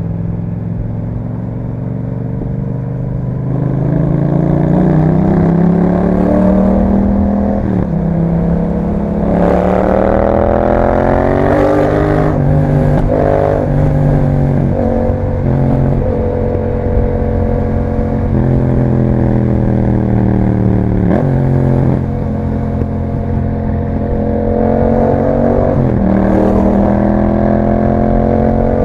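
Yamaha MT-07's 689 cc parallel-twin engine through an Akrapovic exhaust with dB killer, heard while riding: it revs up and drops in pitch at each gear change, several times, with stretches of steady cruising between.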